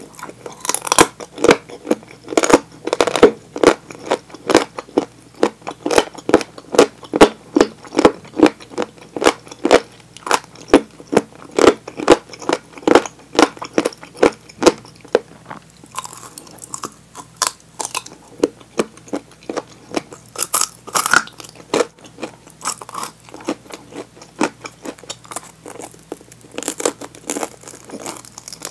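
Close-miked crunching and chewing of crispy deep-fried chicken drumsticks: quick, regular crunches about two or three a second, with a few sharper crackly bites into the crust later on.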